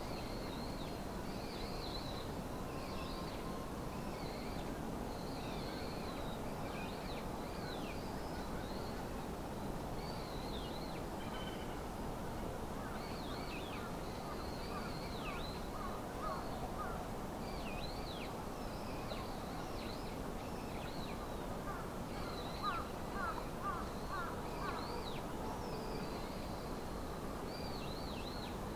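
Birds calling over and over, short high calls that sweep down in pitch, with a few lower, louder calls bunched together about two-thirds of the way in, over a steady low hiss of outdoor background noise.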